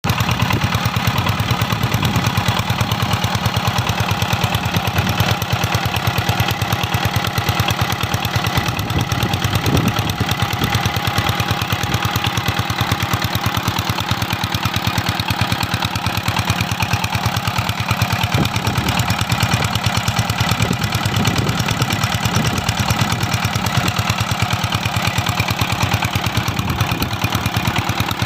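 Stationary diesel engine running steadily while driving an irrigation water pump, with an even, rapid knocking beat.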